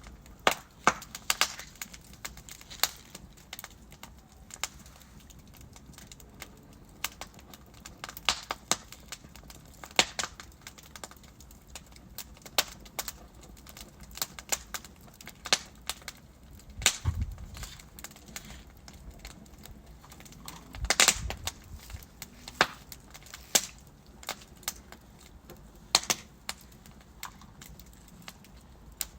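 Wood fire burning in a fireplace, crackling with sharp, irregular pops of burning logs. A couple of louder pops with a low thud come past the middle.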